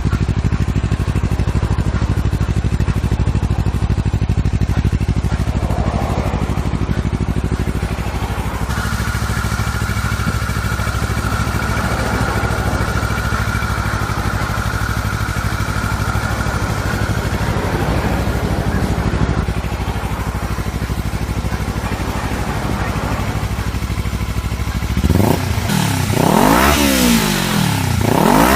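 Kawasaki Ninja 400R's parallel-twin engine idling steadily through an aftermarket slip-on muffler, then revved in quick throttle blips near the end, the pitch rising and falling a few times.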